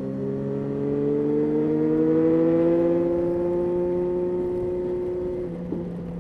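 Yamaha Tracer 9's three-cylinder engine pulling in gear, its pitch slowly rising as the bike accelerates, then dropping suddenly with a short click near the end as it shifts up a gear.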